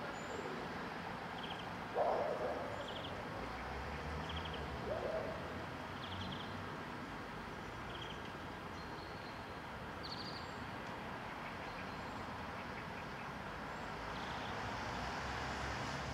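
Outdoor background noise with a small bird's short high chirps repeating about once a second, and two louder, lower calls about two and five seconds in.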